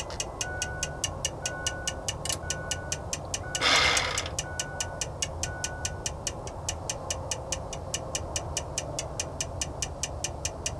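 Rapid, regular electronic ticking at about four a second from the truck's dashboard with the key on, with a short beep repeating for the first six seconds or so and a brief hiss about four seconds in. A steady low hum runs underneath. This is the key-on stage before the rebuilt Cummins 5.9 diesel is cranked.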